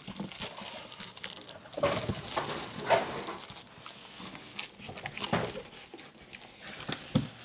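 Packaging being handled and rummaged through: irregular rustling and crinkling with small knocks.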